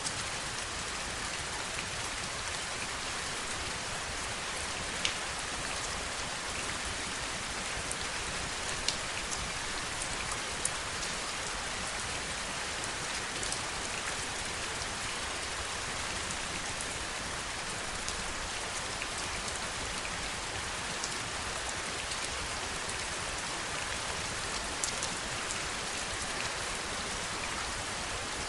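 Steady heavy rain: an even hiss of falling rain with scattered sharper drops tapping now and then.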